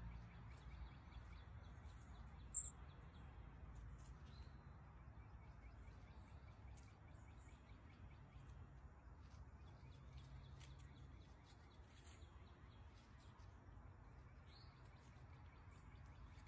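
Near silence with a low steady hum, broken by a few short, high bird chirps; the clearest comes about two and a half seconds in, with two fainter ones later.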